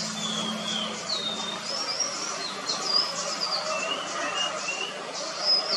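Songbirds calling in short whistled notes, some sliding down in pitch and some rising, scattered through, the loudest about three seconds in and near the end, over a faint, rapid, high insect pulsing.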